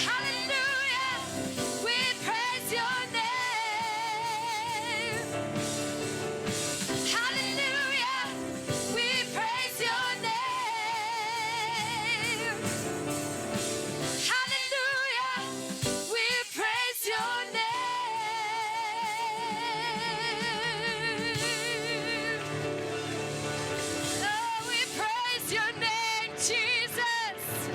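Worship music with a solo singer holding long notes with a wide vibrato over a steady sustained accompaniment, with a brief drop in the voice about halfway through.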